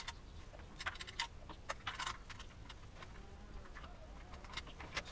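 Scattered light metallic clicks and taps from hand tools working on the motorcycle's exhaust heat shield as its 10 mm bolt is undone; the clicks come at an uneven pace, not as a steady ratchet rhythm.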